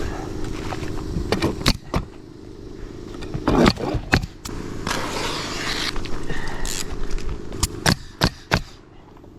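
Roofing work: about ten sharp knocks and clacks in irregular groups, with a stretch of rustling hiss around the middle, over a steady low mechanical hum.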